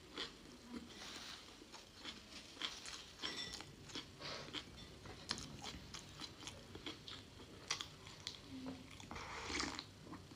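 A person chewing and biting food close to the microphone, with irregular wet clicks and a few longer, noisier stretches about a second in, near the middle and near the end.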